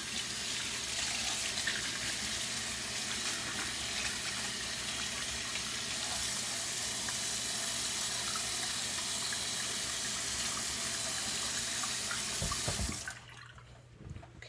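Water running steadily from a faucet into a sink while shampoo is rinsed out of hair held under the stream; the water shuts off a little before the end, just after a couple of low thumps.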